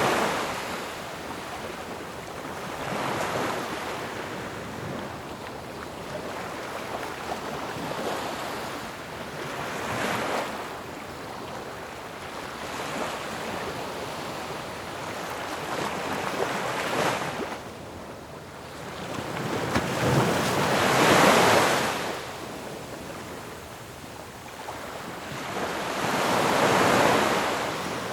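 Ocean waves breaking on a shore, surf swelling and washing back in repeated surges every few seconds, the loudest break about three quarters of the way through.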